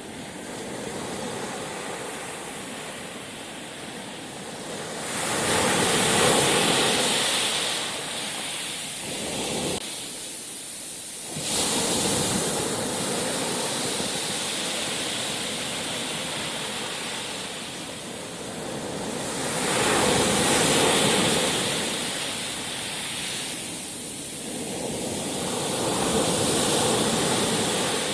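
Sea waves washing onto the shore: a steady rush of surf that swells loud about four times as waves break and then ebbs between them, with a brief lull about ten seconds in.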